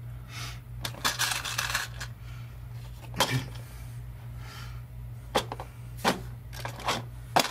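Hands handling small wire connectors and wire: scattered light clicks and rustles over a steady low hum.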